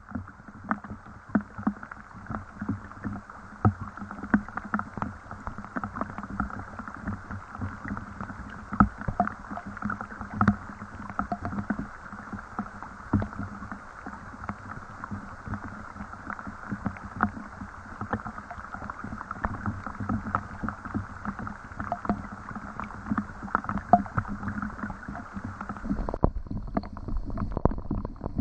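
Rain falling steadily, a dense patter of many irregular drops striking water and hard surfaces. About two seconds before the end the sound changes and a low rumble comes in.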